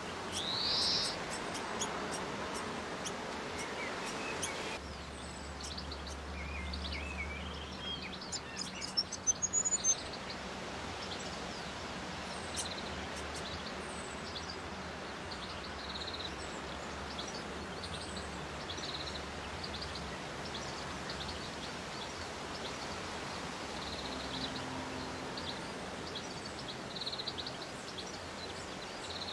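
Small birds chirping: short high chirps scattered throughout, with a rising call about a second in, over a steady background hiss. A quick cluster of sharp clicks comes around nine to ten seconds in.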